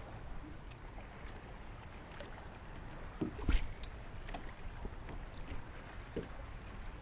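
Water lapping and rumbling against a kayak's hull, with a sharp knock about three and a half seconds in and a few lighter clicks.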